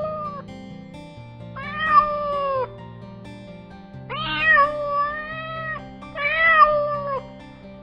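Domestic cat meowing: three drawn-out meows, the middle one about two seconds long, after the tail of a first, over soft background music.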